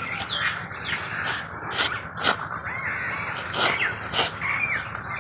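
Several birds calling outdoors: repeated harsh calls mixed with quick falling chirps, many overlapping throughout.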